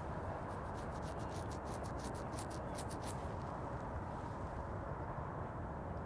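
Outdoor ambience: a steady low rumble of background noise, with a rapid run of high, dry ticks or scratches lasting about three seconds near the start.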